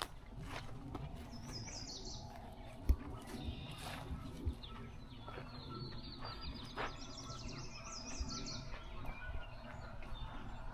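Songbirds singing: a short phrase of high rising notes, then about halfway a long, fast trill of high notes lasting several seconds. Soft thumps and clicks under the song, one louder thump near the start.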